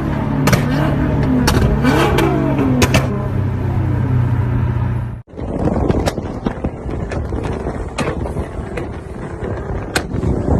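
Modified car exhaust. A steady low drone rises and falls in pitch as the throttle is blipped, with sharp pops and cracks. After an abrupt cut just past halfway it gives way to a rougher, noisier engine sound with scattered cracks.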